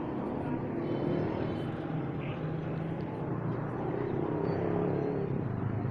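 A steady low engine rumble amid an outdoor background din, with a few faint short chirps above it.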